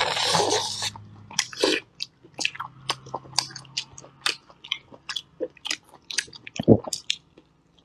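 Two people biting and chewing braised pork ribs, tearing the meat off the bones: a run of short wet smacks and clicks, with a longer noisy tearing bite in the first second and a louder dull knock near the end.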